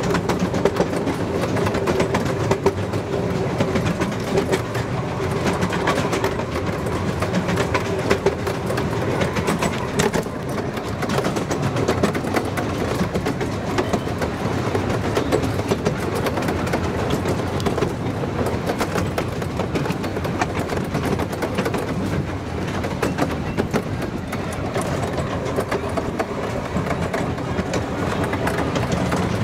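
Miniature railway train running along its track, heard from aboard a carriage: a steady rumble of wheels on rails, with rapid clicking and a faint hum that is clearer at the start and near the end.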